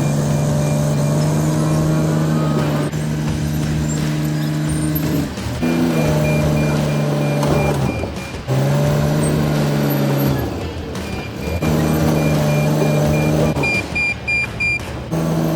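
Cat D7 bulldozer's diesel engine running under load, its pitch dipping and recovering several times as it works. A backup alarm beeps in several stretches while the dozer reverses, loudest near the end.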